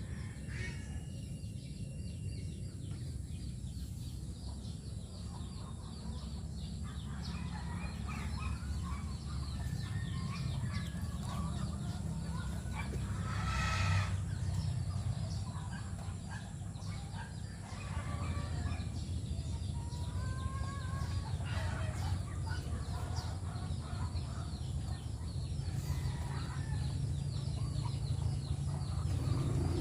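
Chickens clucking, with short calls scattered through and a louder call near the middle, over a steady low rumble.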